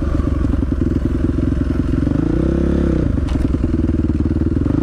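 Two-stroke dirt bike engine running under throttle on a trail ride, its note bending briefly about halfway through as the throttle changes, then carrying on.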